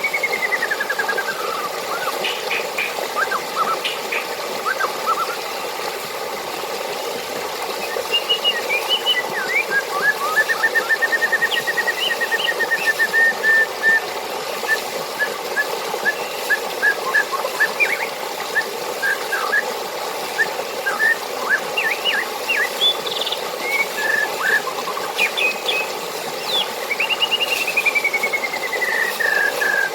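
Steady rush of running water with birds calling over it: a long falling whistle at the start and again near the end, a rapid even trill about ten seconds in, and scattered short chirps between.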